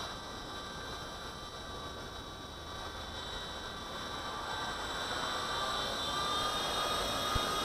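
V913 RC helicopter in flight: its electric motor whines steadily and the rotor blades whir, rising slightly in pitch and loudness over the last few seconds.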